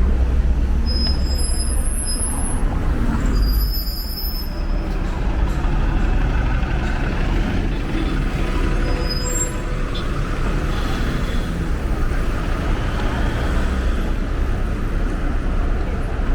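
City street traffic with a heavy vehicle's engine rumbling steadily, and a few brief high-pitched squeals about one to four seconds in.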